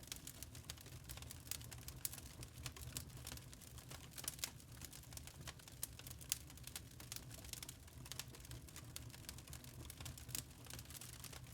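Wood fire crackling in a fireplace: many irregular small pops and snaps of burning logs over a low steady rumble.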